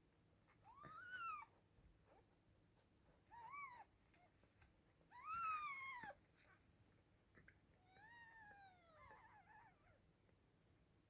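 Newborn Scottish kitten mewing: four thin, high cries that each rise and then fall in pitch. The third cry is the loudest; the last is longer and slides down.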